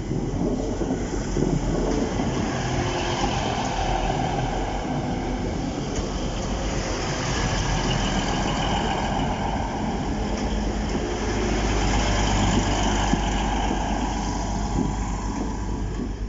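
Class 185 diesel multiple unit running past at close range: a steady low drone of its Cummins diesel engines mixed with the rumble of wheels on the rails, holding an even loudness throughout.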